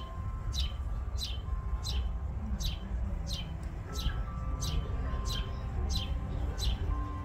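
A bird repeating one short, high, down-slurred chirp at an even pace, about three every two seconds, over a low rumble.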